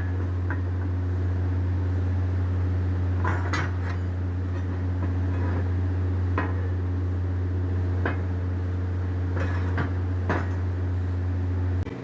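A steady low electrical machine hum, with metal parts clinking and knocking about eight times at uneven intervals. The hum cuts off suddenly near the end.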